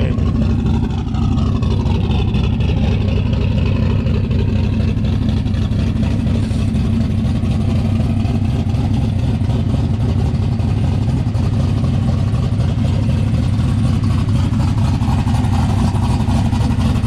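Turbocharged Fox-body Mustang drag-car engine running steadily at a constant speed, loud. The car has a misfire that is traced to a bad coil pack.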